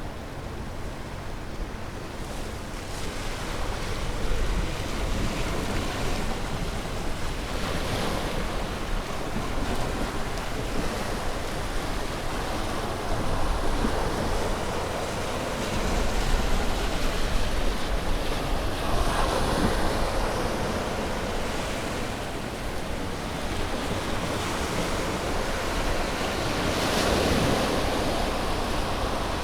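Ocean waves breaking and washing on a shore, a continuous rushing surf that swells and subsides every several seconds, with a steady low rumble underneath.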